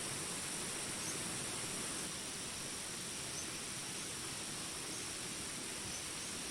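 Steady jungle rain hiss under a continuous high insect drone, with a few faint, short high chirps scattered through it.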